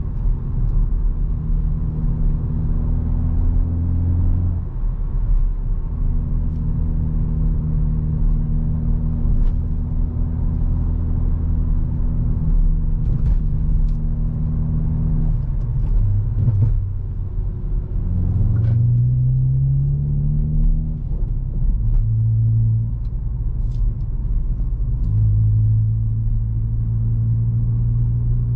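Hyundai i20 N's 1.6-litre turbocharged four-cylinder engine and exhaust pulling the car along at steady revs, with tyre and road rumble underneath. The engine note holds steady for long stretches, changes pitch several times from about halfway through, and rises in one short pull about two-thirds of the way in before settling again.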